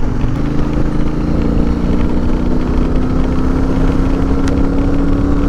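Triumph Speedmaster 1200's parallel-twin engine pulling steadily while riding, its note rising slowly, then dropping suddenly near the end.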